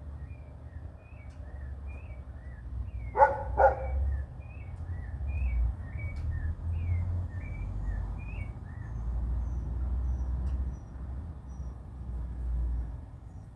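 Small birds chirping over and over, short high chirps about twice a second. A dog barks twice in quick succession about three seconds in, the loudest thing here, over a steady low rumble.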